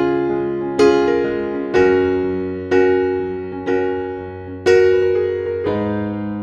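Background music: slow piano chords, struck about once a second and each left to fade.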